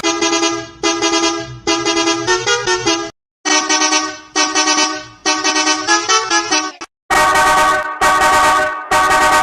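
Vehicle horn sounds played as a short tune: two short phrases and then a longer one, repeated three times. About seven seconds in, the horn switches to a brighter-sounding one.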